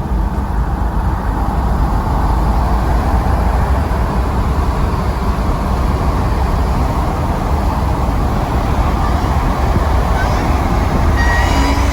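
Car driving along at a steady pace: continuous engine and road noise with a deep rumble, unchanging throughout.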